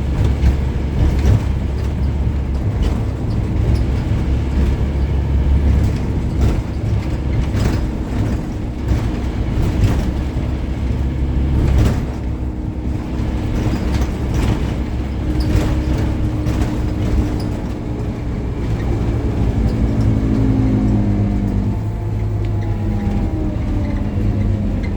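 Scania N270UD OmniCity bus's diesel engine running under way, its pitch rising and falling as the bus accelerates and changes gear, with sharp rattles and knocks from the bodywork.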